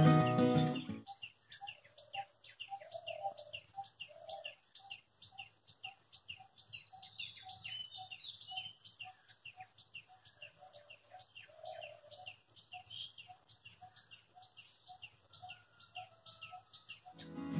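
Several wild birds calling: one repeats a short, lower note about twice a second while others chirp and twitter much higher.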